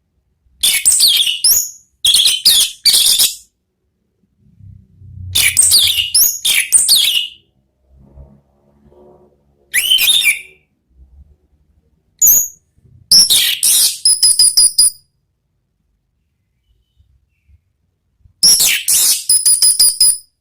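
Orange-headed thrush singing its loud, full ngeplong song: varied phrases of rapid gliding whistles and fast ticking trills, each a second or two long, with pauses of one to three seconds between them.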